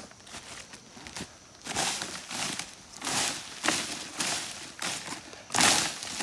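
Dry leaf litter crunching and rustling in a run of about seven rough strokes, roughly half a second apart, from about two seconds in. The loudest comes near the end.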